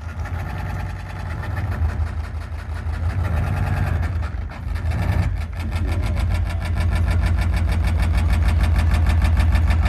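Loud, distorted live band music heard from within the audience: a heavy low drone, with a fast, even drum rhythm taking over about halfway through.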